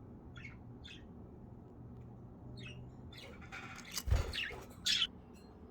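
Budgerigars giving a few short chirps, then loud harsh squawks about three seconds in, with a thump about four seconds in.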